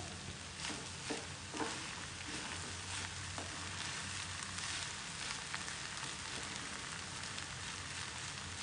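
Fried rice sizzling steadily in a kadai over a high flame while a flat spatula stirs and tosses it. A few sharper spatula scrapes and knocks against the pan come in the first two seconds.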